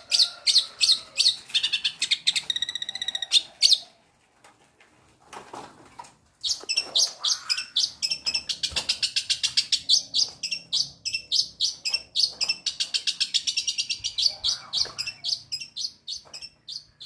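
Long-tailed shrike (cendet) singing rapid strings of sharp, high chirps, its mimicry of Eurasian tree sparrow fighting calls. The song breaks off for about two seconds around four seconds in, then resumes and runs on until just before the end.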